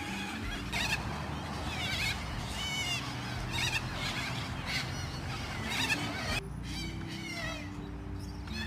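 A flock of little corellas calling, many short harsh screeching calls overlapping one another.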